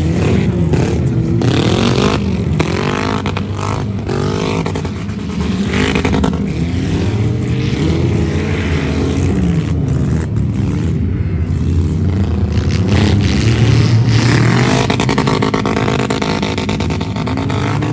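Demolition-derby vehicle engines revving up and down again and again, several at once, with scattered sharp knocks.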